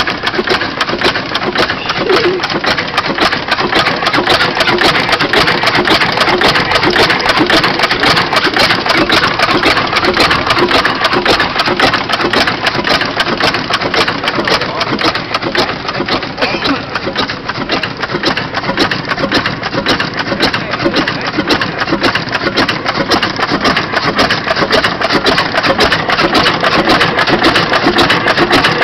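Old gas engine running steadily with a fast, even clatter.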